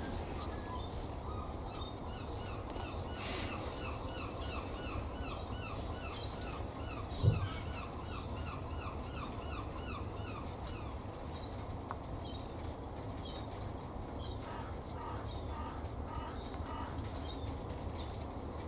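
A small bird chirping a quick run of short, repeated falling notes, about four a second, then more scattered calls later on. A single dull thump about seven seconds in is the loudest sound, over a steady low background hum.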